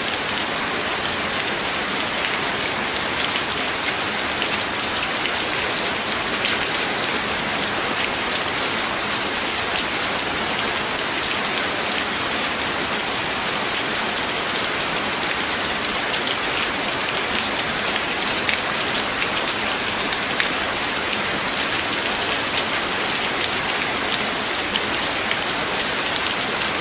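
Steady, loud rain, an even hiss with the fine patter of individual drops, unchanging throughout.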